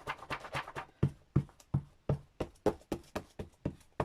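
A quick, even series of sharp taps at a craft desk, about three a second, as a tool is tapped or dabbed repeatedly on the work.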